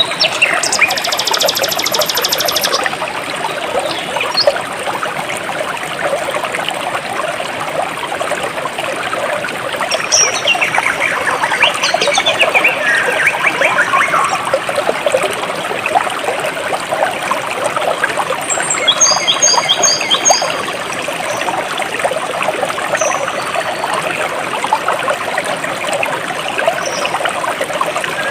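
A jungle stream of water trickling and flowing steadily, with birds calling over it: a rapid buzzy trill in the first few seconds, a few falling calls a little before the middle, and a short run of repeated high chirps past the middle.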